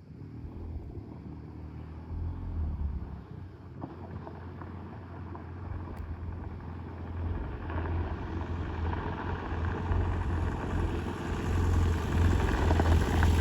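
Adventure motorcycle engine running and approaching, growing steadily louder as it draws near.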